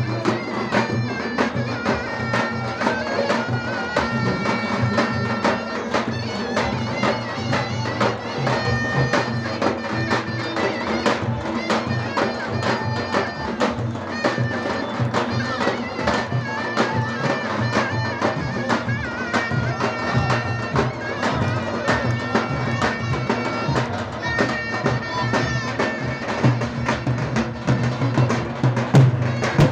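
Davul and zurna playing a folk dance tune: the zurna's shrill reed melody over the steady beat of the double-headed davul drum.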